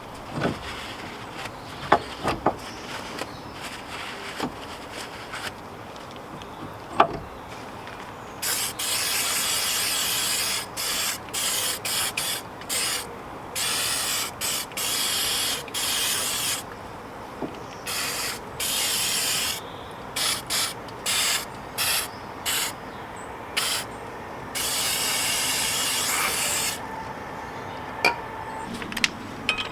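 Aerosol spray hissing in repeated bursts of up to about two seconds each, starting about eight seconds in, after a few light knocks.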